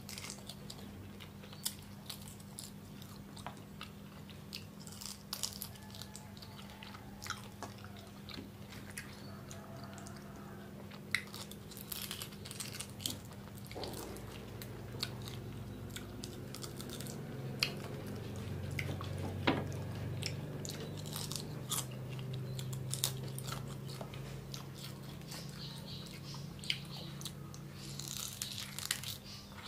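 A person biting and chewing cooked rhino beetles, the hard shells crunching in many sharp crackles, over a steady low hum.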